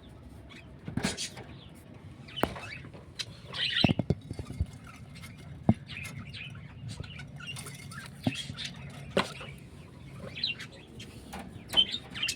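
Small birds chirping in short, scattered calls, with sharp clicks and taps in between.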